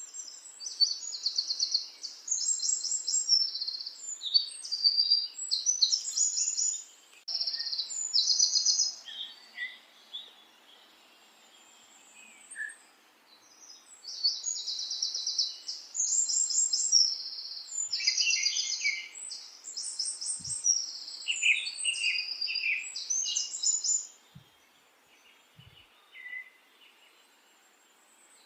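A small bird singing in bursts of rapid, high, trilled chirps and twitters, with a pause of a few seconds about ten seconds in and only faint calls near the end.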